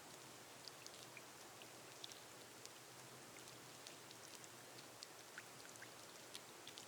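Rain falling on a glass roof: a faint, steady hiss with scattered sharp drops ticking on the glass.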